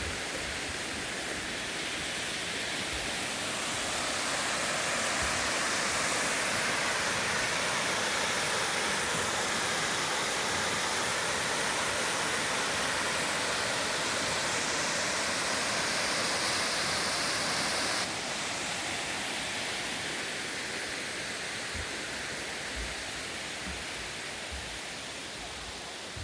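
Steady rush of a mountain stream. The level drops suddenly about two-thirds of the way through.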